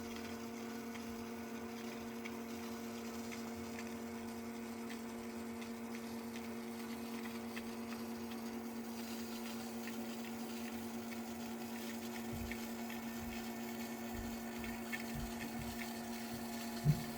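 Electric sump pump running steadily, a motor hum with water being pumped out of the pit. A few soft low knocks come in over the last few seconds.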